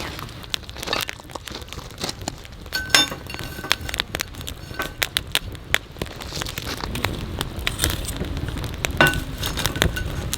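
Wood fire crackling with irregular sharp pops. There are two brief ringing clinks, about three seconds in and again near the end.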